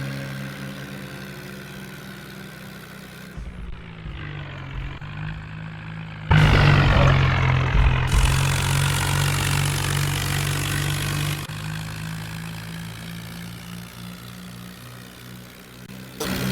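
5911 tractor's diesel engine running with a steady low note, hauling a loaded trolley. The level jumps abruptly several times as shots are cut together, loudest from about six to eleven seconds in.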